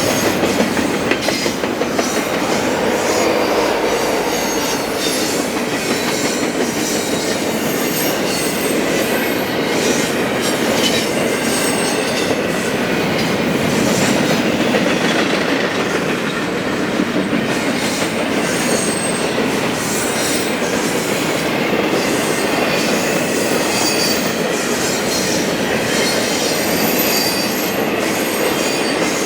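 Train cars rolling past at close range, a steady rumble with the wheels clicking over rail joints and short high-pitched squeals coming and going.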